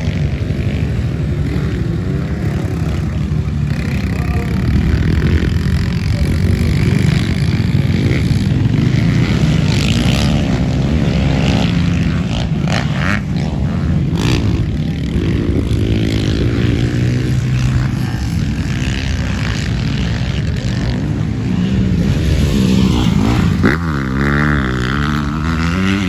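Yamaha TT-R125LWE dirt bike's small single-cylinder four-stroke engine running under riding, its revs rising and falling with the throttle, and a sharp rev-up near the end.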